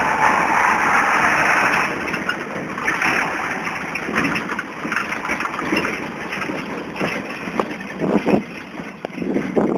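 Farm tractor engine running, loudest for about the first two seconds and then quieter, with scattered knocks and clatter near the end.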